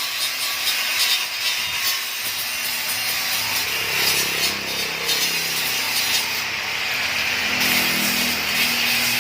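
Small lawn-mower engine running with a fast, raspy buzz, its pitch rising and falling through the middle and later part as the throttle changes.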